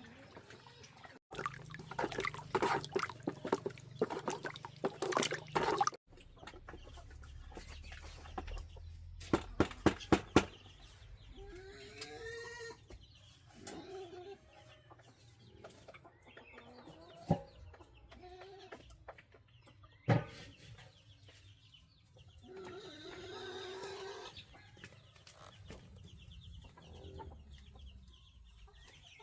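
Chickens clucking now and then, with a stretch of busy rapid knocking early on and a few loud sharp knocks in the middle.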